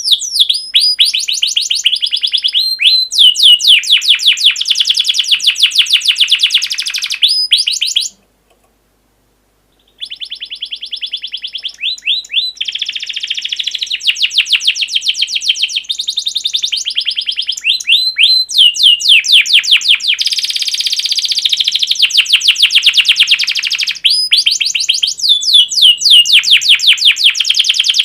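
Recorded songbird song used as masteran for training caged birds: long runs of rapid, high-pitched chirping trills. It stops dead about eight seconds in and resumes about two seconds later.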